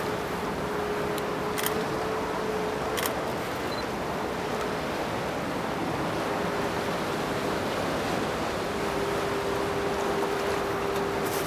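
Steady wash of sea surf, with a faint steady hum underneath and a few short, sharp high sounds about two and three seconds in and again near the end.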